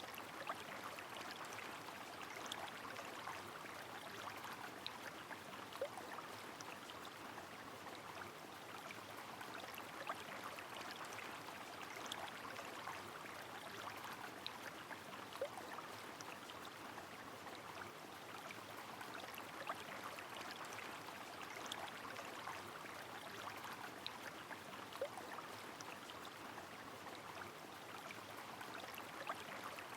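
Rain falling with a river flowing: a steady, even rush of water, dotted with sharp drop ticks and a few small plinks about every ten seconds.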